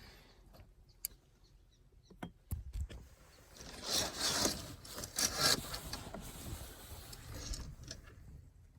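A few sharp clicks, then a couple of seconds of loud rustling and scraping.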